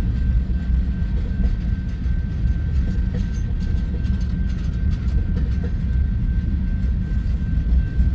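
Freight cars of a Union Pacific manifest train rolling past: a steady low rumble of wheels on rail, with scattered faint clicks and a thin steady high whine above it.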